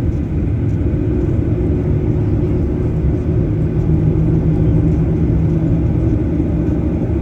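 Cabin noise of a Boeing 737-900ER taxiing: a steady low rumble from its CFM56-7B engines at taxi power. A low hum in it grows stronger for a few seconds in the middle.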